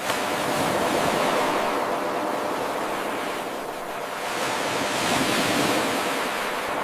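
Ocean waves washing in as a steady rush of surf that swells twice. The level jumps suddenly just after the start, where the eight-second wave recording loops back on itself.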